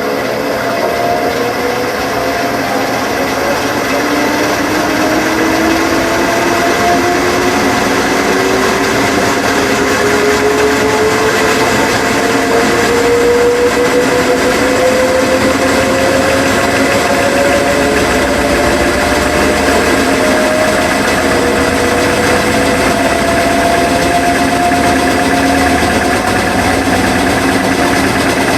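Washing machine running with a steady mechanical hum, its motor whine rising slowly and evenly in pitch as the drum speeds up toward spin.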